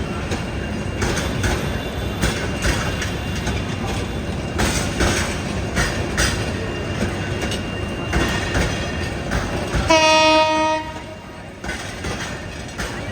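Train running on the rails with a steady rumble and wheel clatter, then a single short horn blast about ten seconds in, after which the train noise drops away.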